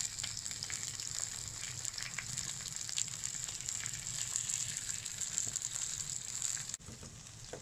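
Red onion wedges sizzling in a frying pan on a wood-fired stove: a steady, dense crackle. Near the end it drops suddenly to a quieter hiss.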